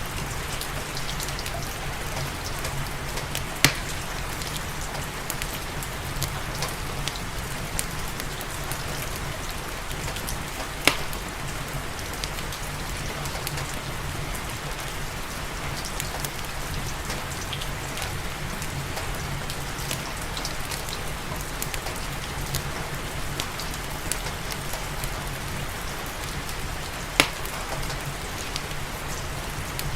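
Steady rain mixed with the crackle of a wood fire in a fireplace, scattered small snaps throughout and three louder pops, one a few seconds in, one about a third of the way through and one near the end.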